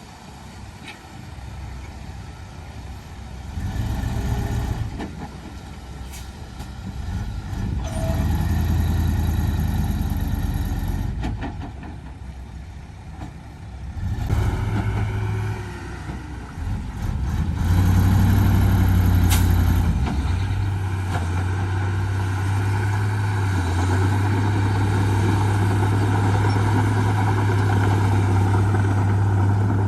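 Diesel engines of heavy earthmoving machinery working. They rise and ease off in spells, then run loud and steady from about two-thirds of the way in.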